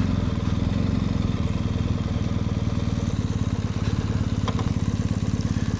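BMW R 1250 GS boxer-twin motorcycle engine idling with an even, pulsing beat.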